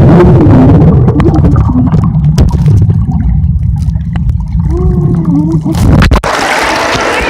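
Muffled, loud low rumble of pool water heard with the microphone underwater, with a muffled wavering voice about two-thirds through. The sound opens up abruptly near the end as the microphone breaks the surface.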